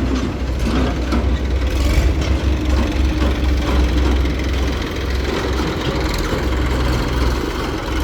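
Heavy diesel engine running steadily, with a few knocks and clatter in the first couple of seconds.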